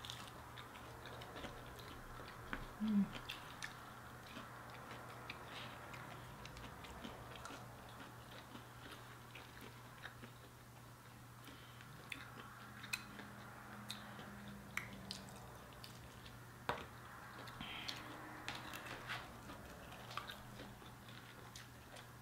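Chewing and biting into fried chicken wings, with small wet clicks and smacks scattered throughout, over a steady low hum. One brief louder sound comes about three seconds in.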